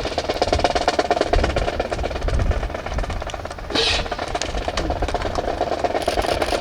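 Marching drums playing a fast, steady cadence of sharp strokes, accompanying a ceremonial rifle drill.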